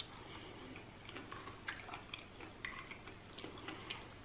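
Faint close-up chewing of a mouthful of cheesy shrimp-loaded baked potato, with scattered small clicks, some of them a plastic fork working in the dish.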